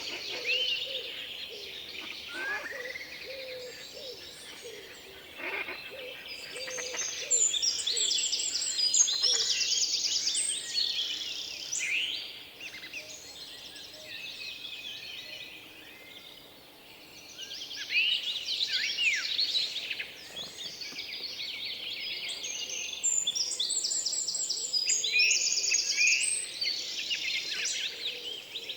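Several small birds chirping and singing, with fast trilled phrases coming in bursts over a faint outdoor background.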